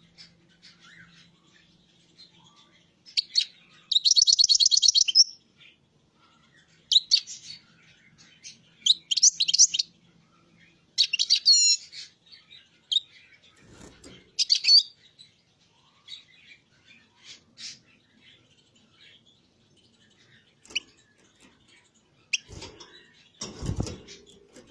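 A pet songbird singing in short phrases of high chirps and rapid trills, with pauses between them. There is some low, rough noise near the end.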